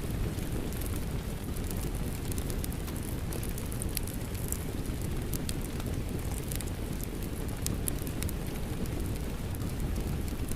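A steady wash of rain mixed with a crackling wood fire, the fire's sharp pops and snaps scattered irregularly over a continuous low rumble.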